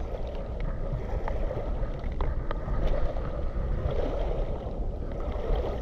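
Wind buffeting the microphone over water lapping at a tidal river foreshore, with a few faint clicks.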